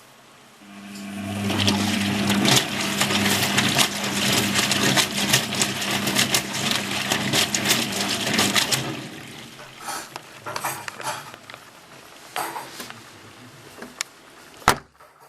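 Hoover HTC 172 washing machine: water rushing through the machine with a steady electrical hum, starting about a second in and dying away after about eight seconds, then light clicks and knocks.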